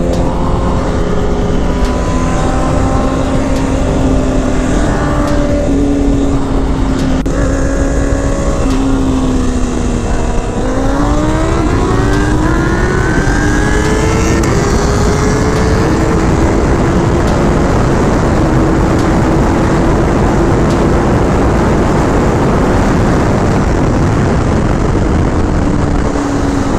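Motorcycle engine running under way beneath a steady rush of wind noise. The engine note sags a little, then climbs steeply about ten seconds in as the bike accelerates, and holds steady after that.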